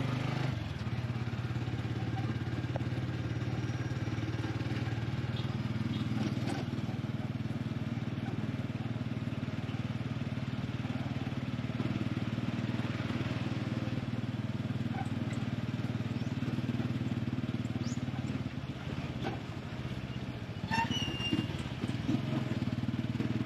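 Small motorcycle engine of a tricycle running steadily under way with road noise, heard from the passenger sidecar. It eases off briefly near the end, with a few short clicks and a brief high tone.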